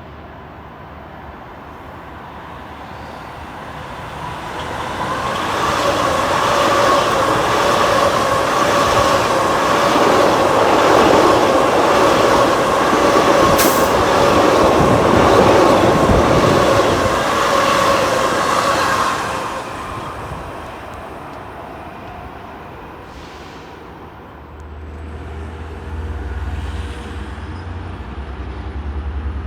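A train passing: it builds from about four seconds in, runs loud for some fifteen seconds with a steady two-note whine over the rumble of the wheels, then fades out. There is a single sharp click near the middle of the pass.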